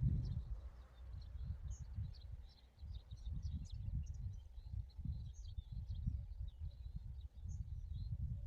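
Small birds chirping, many short high calls throughout, over a low uneven rumble that is the loudest part of the sound.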